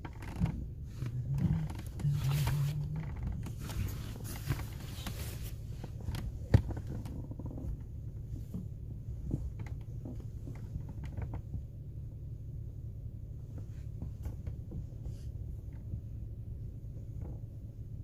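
Rustling, a zip and scattered clicks of gear being handled inside a small car for about the first five seconds, then a steady low hum with occasional faint clicks.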